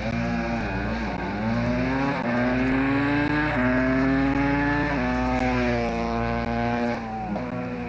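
Rally car engine under hard acceleration along a timed stage. Its note climbs in pitch with steps at the shifts, holds high, then eases off near the end.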